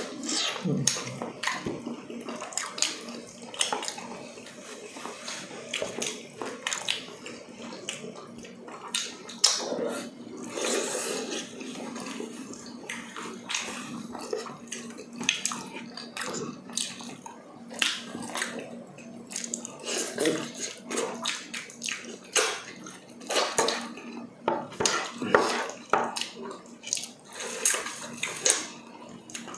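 Close-up wet chewing and lip-smacking of people eating braised pork leg and rice by hand, a steady run of short, sticky mouth clicks and smacks.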